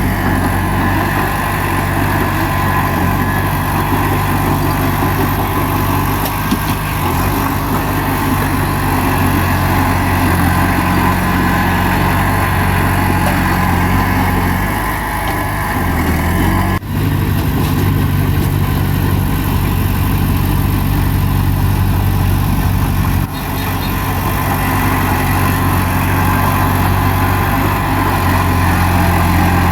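Bulldozer's diesel engine running steadily at an even low pitch, with two brief sharp dips in level about halfway and three-quarters of the way through.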